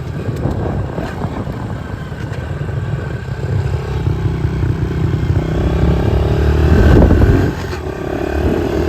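Honda CRF110 pit bike engine, a small air-cooled single-cylinder four-stroke, running under way with the revs climbing over several seconds. The revs drop off sharply about seven and a half seconds in, then climb again.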